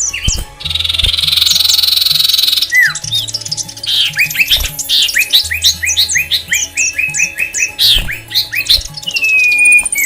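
Caged aviary birds calling. A harsh, noisy screech lasts about two seconds, then comes a rapid run of short whistled notes, each sweeping downward, about four a second.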